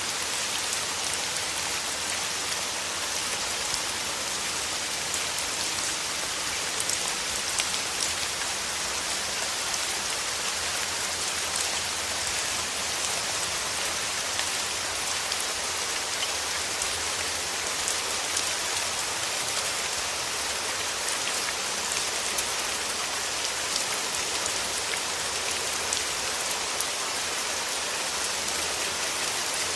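Steady rain: an even hiss with individual drops ticking through it.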